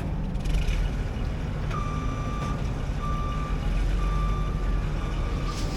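Vehicle backup alarm beeping steadily, about one long beep a second starting about two seconds in, over a low, steady engine rumble.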